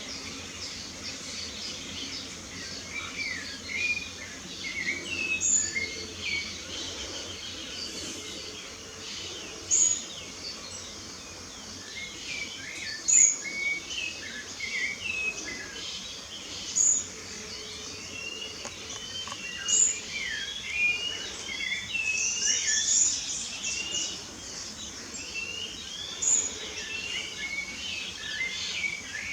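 A chorus of wild birds singing and calling, with many quick chirps and warbled phrases, and one short high note repeating every three to four seconds over a faint steady background of insects and ambience.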